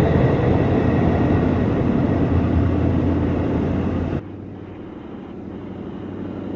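Diesel-electric locomotive running loudly with a steady low engine hum. About four seconds in the sound cuts suddenly to a quieter, duller engine hum.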